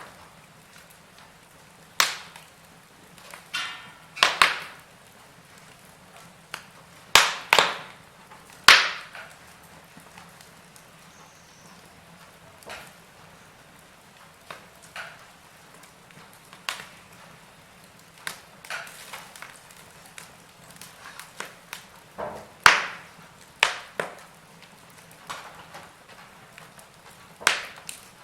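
Burning wood fire crackling, with sharp, irregular pops and snaps every second or two.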